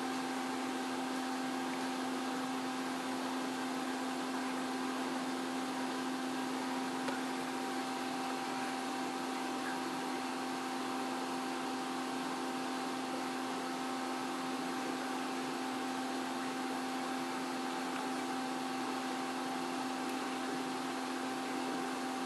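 Aquarium pump humming steadily under an even hiss, with a low buzz and a higher whine that hold one pitch throughout.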